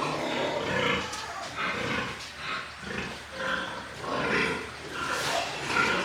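Pigs grunting in a run of short, irregular grunts.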